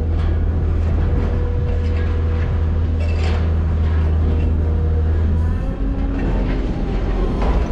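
Heavy diesel machinery running with a steady low drone that drops away about five and a half seconds in, with scattered metallic knocks.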